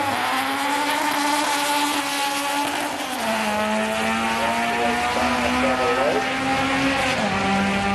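Car engine held at steady raised revs, its pitch stepping down about three seconds in, back up around five seconds, and down again near the end.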